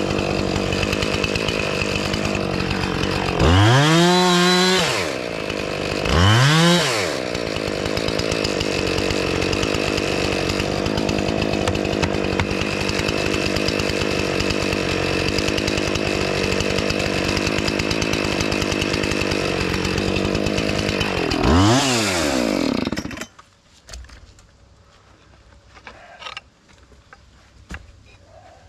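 Two-stroke chainsaw running steadily, revved up and back down twice a few seconds in and once more near the end, then shut off abruptly. A few faint knocks follow.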